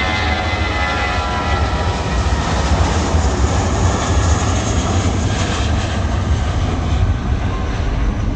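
Jet airliner's engines running loud and steady. A whining tone is heard at first and fades in about the first second, leaving an even rush of engine noise.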